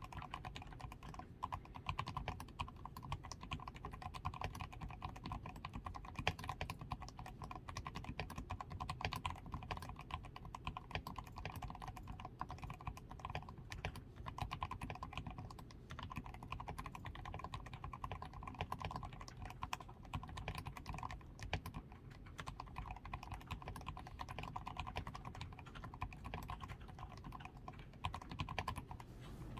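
Steady typing on a DAREU A87 Pro mechanical keyboard that is fully lubed with Krytox 105, with a PCB tape mod, foam in the switches, XDA keycaps and lubed stabilizers. Dense, quick key strikes, with a couple of short pauses midway.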